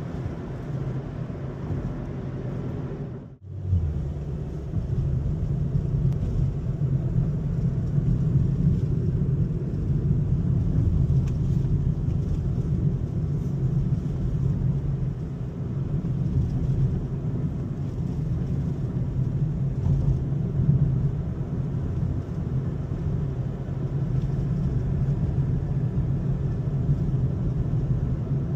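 Steady low road and engine rumble from a moving car, heard from inside the cabin, with a brief dropout about three seconds in.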